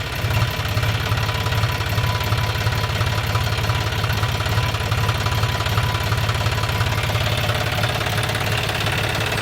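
Small engine of a DIY miniature tractor running steadily at idle, with a rapid, even run of firing pulses.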